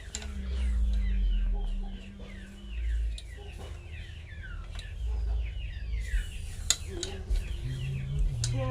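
Chickens: many short, high chirps falling in pitch, over a low rumble.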